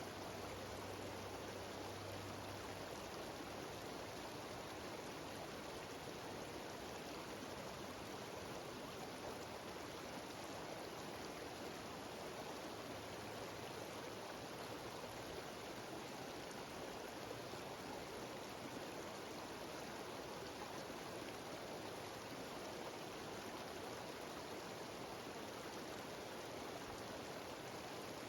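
A mountain waterfall cascading, a steady, even rush of water with no breaks.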